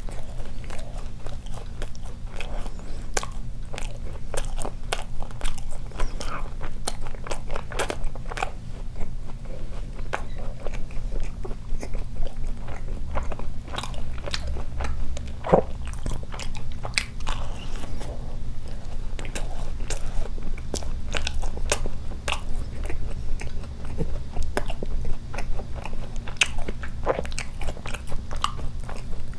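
Close-miked chewing and biting of a Krispy Kreme glazed ring doughnut: many small mouth clicks several times a second, over a steady low hum.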